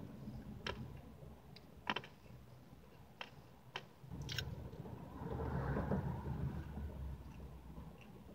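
Close-mic chewing of a soft frosted cupcake, with sharp mouth clicks and smacks every second or so and a louder, muffled stretch between about four and seven seconds in.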